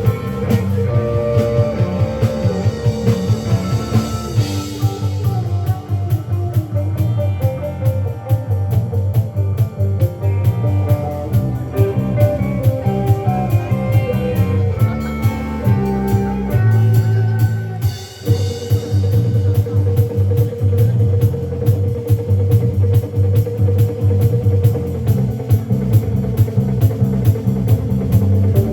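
Live rock band playing an instrumental passage: electric guitar lines over bass guitar and a drum kit. The music drops out briefly about 18 seconds in, then resumes.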